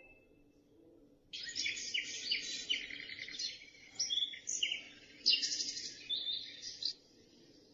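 Recorded birdsong, a dense run of chirps and trills, played through the small speaker of a Dreamegg Pocket Sleep 1 sleep-sound machine. It starts about a second in and cuts off abruptly near the end.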